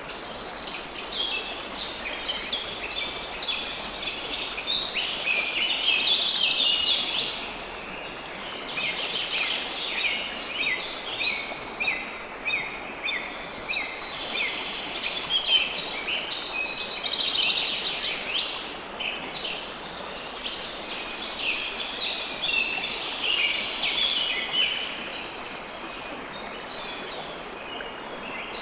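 Birds chirping in dense bouts of quick, short high notes over the steady rush of flowing river water; the chirping stops near the end, leaving the water.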